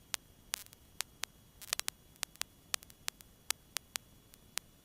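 Faint, irregular clicks and crackles of static on the aircraft's radio and intercom audio between transmissions, about fifteen in all, some with a brief buzzy rasp.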